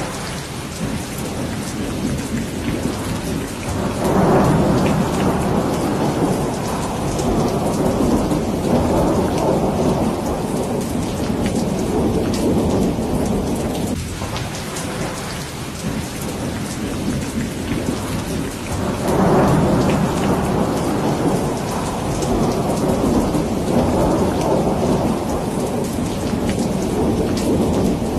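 Steady heavy rain hissing, with thunder rolling in twice, a few seconds in and again past the middle, each roll rumbling for around ten seconds before fading.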